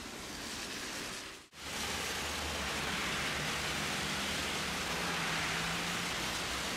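Heavy rain making a steady hiss around a running tram, with a faint low hum partway through. The sound drops out for a moment about one and a half seconds in and comes back louder.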